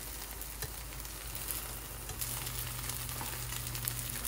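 Kimchi pancake frying in oil in a nonstick pan: a steady sizzle full of small crackles, with a plastic slotted spatula pushing and scraping the pieces around the pan.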